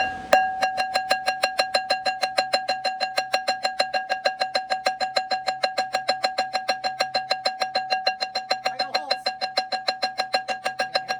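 Rapid, light hammer taps, about seven a second, driving clutch pressure-plate dowel pins into a steel flywheel. The flywheel rings with a steady bell-like tone under the taps, and the first strike is the loudest. The taps are kept light because hitting the pins hard would mushroom their tops.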